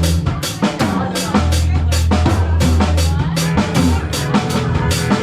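Live band playing loud, with a steady drum beat over sustained low bass notes.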